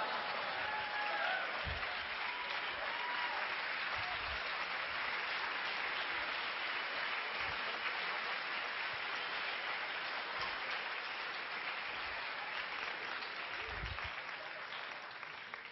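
Audience applauding, with a few whoops in the first second or so; the applause stays steady, then fades out near the end.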